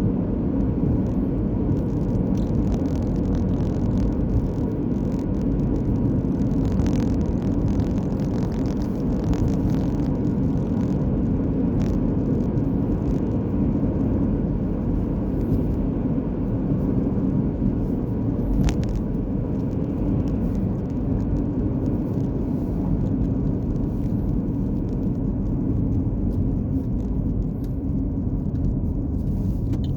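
Steady low road rumble of a moving car, with a few faint ticks.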